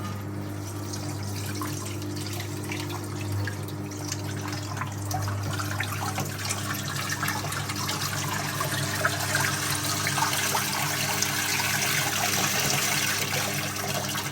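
The 1958 Hotpoint Empress washing machine's power wringer runs with a steady electric hum while a wet towel passes through its rollers, and the wrung-out water splashes and pours into the tub, getting louder from about halfway.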